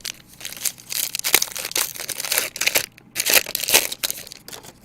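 Plastic trading-card pack wrapper crinkling and rustling as it is handled and torn open, in a run of irregular crackling bursts that stops shortly before the end.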